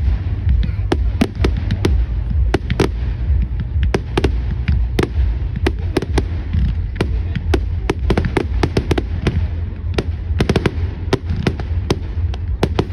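Fireworks going off in a rapid, irregular string of sharp cracks and pops, several a second, over a steady low rumble.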